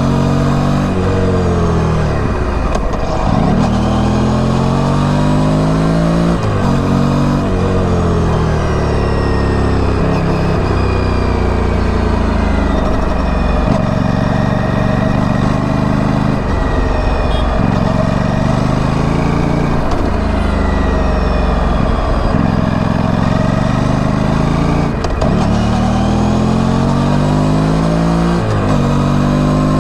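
Aprilia Tuono 457's parallel-twin engine through its stock exhaust, ridden in traffic: the engine note climbs under acceleration and drops at each gear change, several times over.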